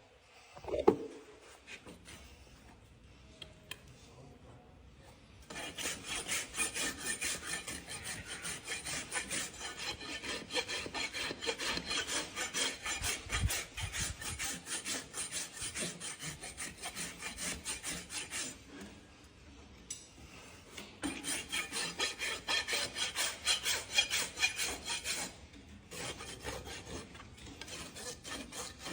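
Farrier's rasp filing a horse's hoof in quick, even back-and-forth strokes, in long runs broken by short pauses. A single sharp knock comes about a second in.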